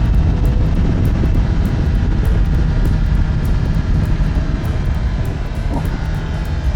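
Kawasaki ZX10R's inline-four engine running steadily under way, a dense low drone that eases off slightly near the end.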